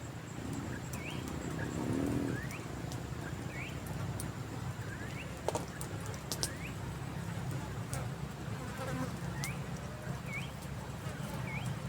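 Flying insects buzzing steadily. A short rising chirp repeats about once a second, pausing for a few seconds in the middle, and a few sharp clicks are heard, the loudest about halfway through.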